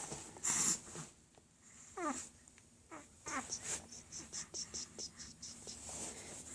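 A tiny young pet's short calls, two of them falling in pitch about two and three seconds in, followed by a run of soft, quick sounds about three a second.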